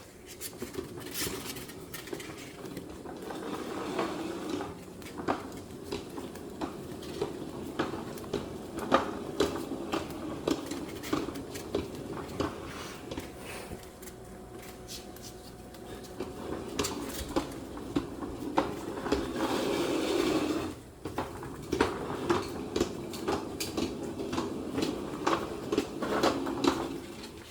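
Many light clicks and clatters of small hard objects, over a steady low rumble.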